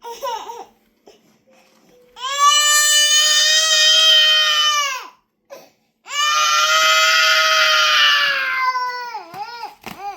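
A 14-month-old toddler crying in a tantrum: two long, high-pitched wails of about three seconds each with a catch of breath between, then shorter broken sobs near the end.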